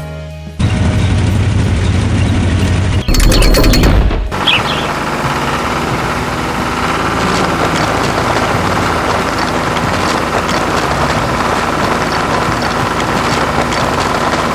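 Animated heavy-machinery sound effects: a steady low engine-like rumble, then a loud rattling crash about three seconds in that lasts about a second, followed by background music over continuing machine noise.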